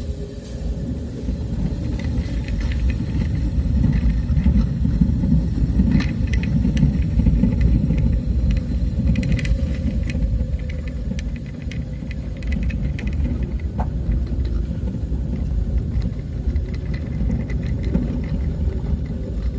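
Low, steady rumble of a vehicle travelling along a road, with scattered small rattles and clicks throughout.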